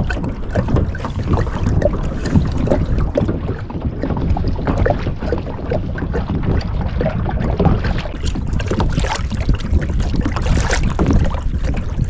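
Wind rumbling on the microphone over water slapping and splashing against a kayak hull, with frequent small knocks.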